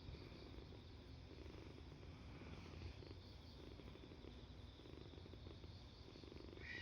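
Kitten purring softly and steadily, with a brief higher sound right at the end.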